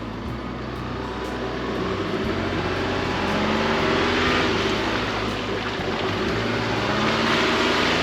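Chevy Colorado ZR2 Bison pickup driving a dirt trail: the engine pulls with its pitch rising and falling, over steady tyre and road noise, getting louder a few seconds in.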